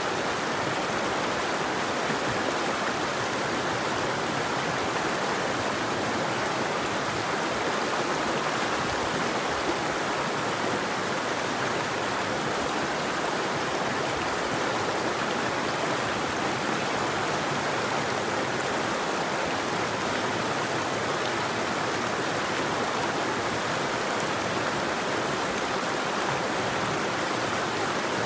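A river or stream flowing steadily, a constant even rush of water with no birdsong.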